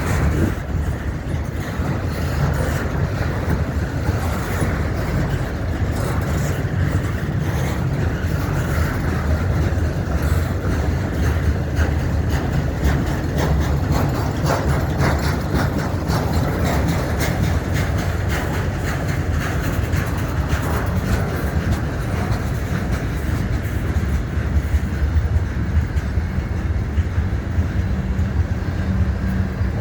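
Freight train cars rolling past: a steady low rumble of steel wheels on rail, with quick clicking as the wheels run over rail joints.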